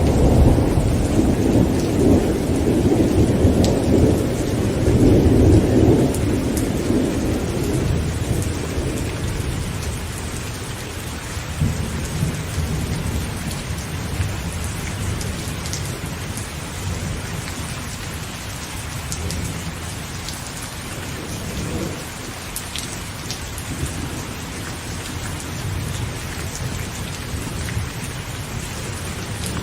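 Heavy rain falling on a tent, with a long roll of thunder rumbling at the start and fading away over the first several seconds. After it, steady rain continues with scattered sharper drop hits.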